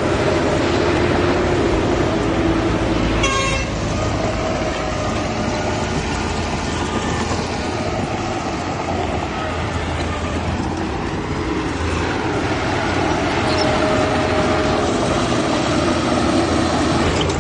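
Heavy diesel earthmoving machinery running steadily under load, with a short rattling clatter about three seconds in.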